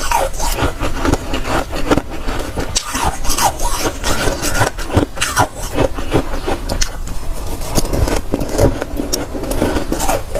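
Close-up bites and chewing of dry, soft freezer frost, a dense run of crisp crunches several times a second.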